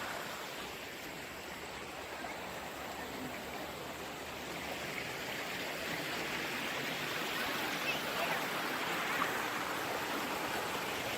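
Creek water running over rocks, a steady hiss of flowing water that grows a little louder about halfway through.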